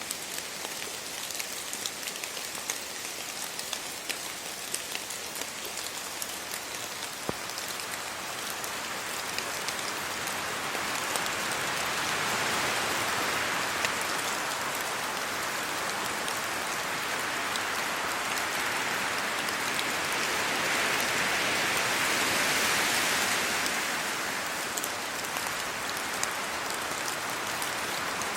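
Steady rain pattering on leaves and the road, with many small drop ticks. From about ten seconds in a broad rush swells up, as wind gusts through the trees, and eases again near the end.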